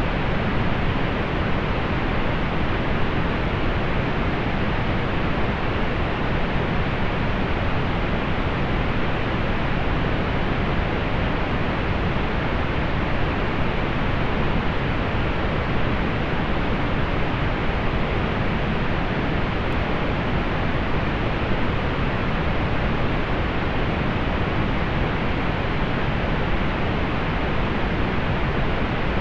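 Synthetic pink noise: a steady, even hiss with more weight in the lows, softened in the highs.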